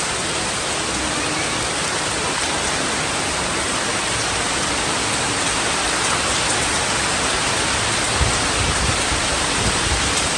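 Heavy rain falling steadily, a dense, even hiss, with a few low bumps near the end.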